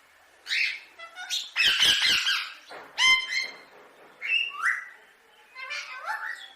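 Indian ringneck parakeet squawking: a run of short, harsh calls, several rising in pitch, with the loudest, noisiest burst about one and a half to two seconds in.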